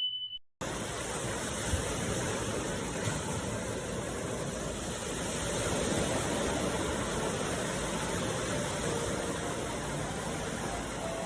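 A short high tone fading out in the first half second, then a steady rushing noise of sea water.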